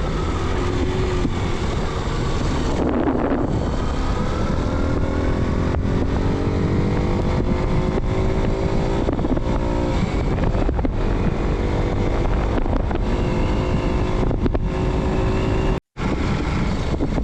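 Motorcycle engine running while riding, its pitch climbing steadily for several seconds as it accelerates, over a heavy low rumble. The sound cuts out for an instant near the end.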